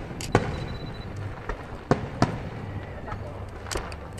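Aerial firework shells bursting in sharp bangs: a pair near the start, two in quick succession near the middle and more near the end, over a low rumbling haze.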